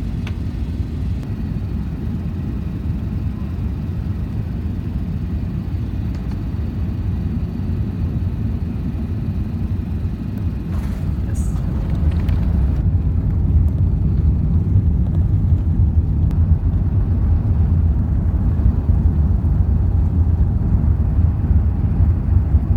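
Low, steady rumble of an Airbus A380's cabin, heard from a passenger seat, growing louder about halfway through.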